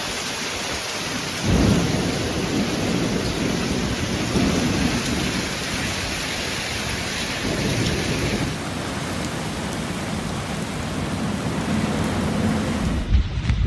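Heavy rain pouring down, with low rumbles of thunder swelling up a few times.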